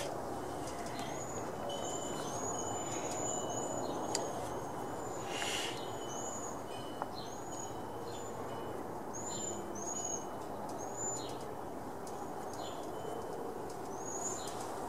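Small birds chirping: a long run of short, high chirps, several in quick succession, with a few brief clicks and rustles of handling.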